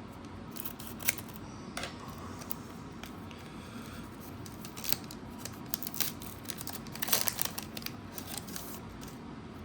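Foil booster pack wrapper crinkling and crackling in the hands as it is opened, with scattered clicks and a denser burst of crackling about seven seconds in.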